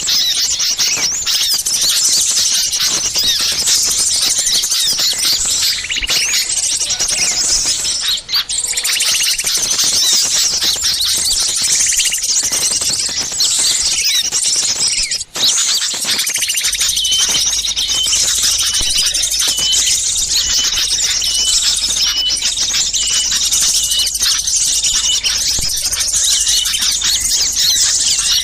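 A dense, noisy chorus of many small songbirds chirping and calling over one another without pause: a bird-lure recording of agitated small birds. From about halfway through, one short note repeats roughly every second above the mix, and the chorus drops out briefly twice.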